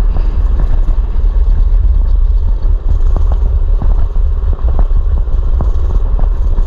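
Mini bike's small engine running while riding, with heavy wind rumble on the microphone and many short clattering knocks throughout.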